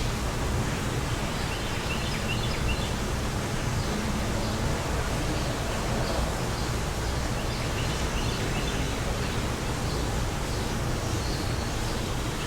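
Wind blowing steadily, with a low rumble of gusts on the microphone. A small bird chirps in short quick runs of a few notes, three times.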